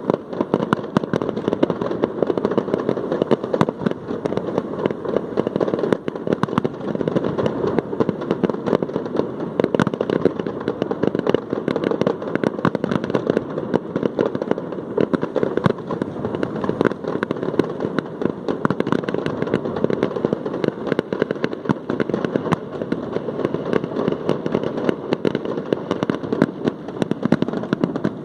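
Fireworks display: a dense, continuous barrage of rapid bangs and crackling that never lets up.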